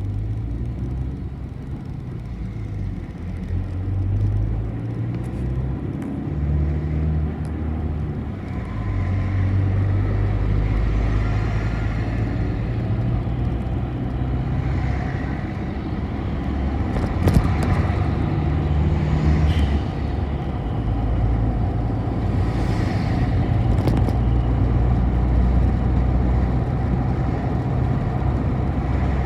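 City bus engine running while driving, heard from inside the bus. The engine hum rises and falls with speed and gear, with a sharp knock about seventeen seconds in.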